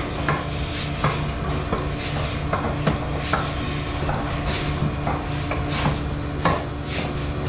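Irregular knocks and clanks, two or three a second, over a steady low machine hum.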